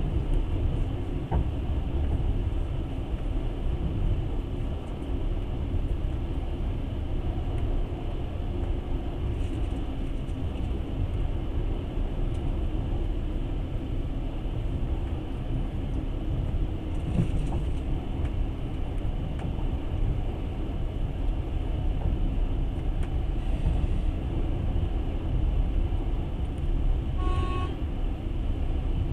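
Steady rumble of a moving passenger train, heard from inside the carriage. Near the end there is a short, high-pitched tone.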